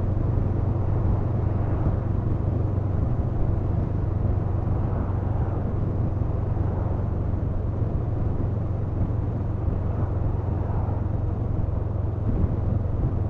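Honda CMX500 Rebel's parallel-twin engine running at a steady cruise with road and wind noise, with no change in revs.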